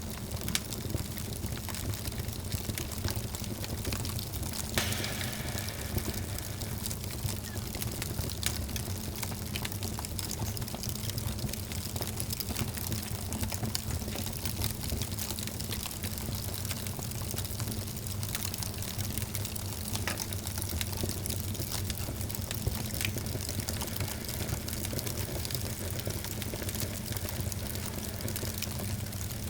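Wood fire burning in a fireplace: frequent small crackles and pops over a steady low rumble.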